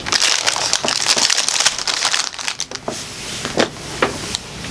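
Close-up crunching and crackling of someone chewing a chocolate-covered peanut butter filled cookie, with irregular crackly clicks.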